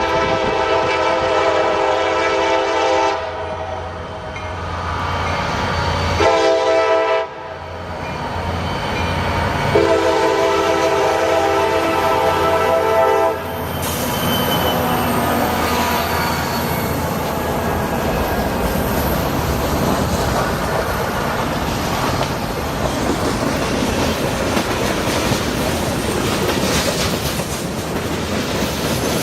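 CSX train's locomotive horn sounding a chord in three blasts, long, short, long, then the train passing with a steady rumble and clatter of wheels on the rails.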